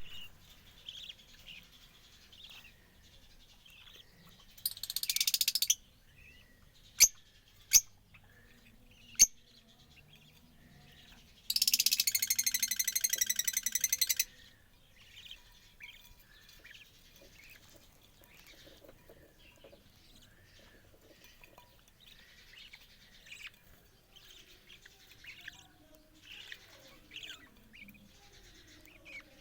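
Budgerigars chirping and chattering softly. A loud, harsh burst comes about five seconds in, then three sharp clicks, and then a louder, rapidly pulsing harsh sound lasts nearly three seconds from about twelve seconds in.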